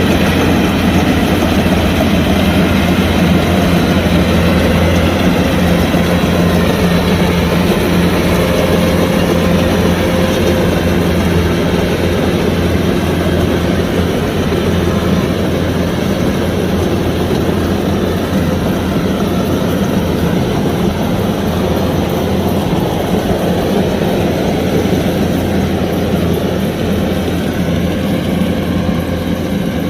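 Kubota DC105X combine harvester running steadily at working speed, a heavy diesel drone with the rumble of its machinery, growing a little quieter in the second half.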